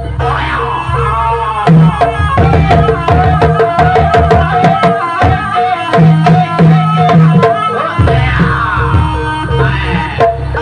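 Jaranan music: a gamelan ensemble led by kendang hand drums beating a fast, busy rhythm over steady ringing gong-chime tones. A higher tone slides downward near the start and again near the end.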